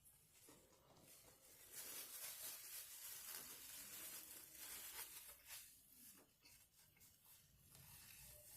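Food wrapper rustling and crinkling for about three and a half seconds in the middle, with faint small handling and eating sounds around it.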